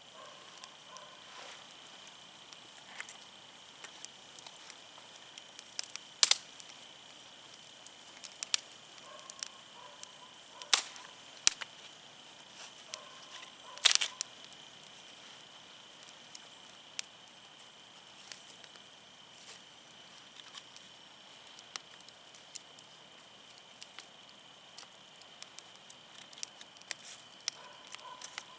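Firewood burning in an open fire, crackling with scattered sharp pops; the three loudest pops come about six, eleven and fourteen seconds in, over a faint steady high hiss.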